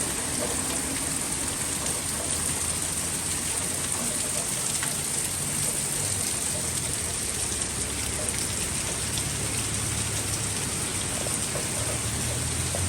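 Heavy rain falling steadily as an even hiss. A vehicle's low engine hum comes up near the end.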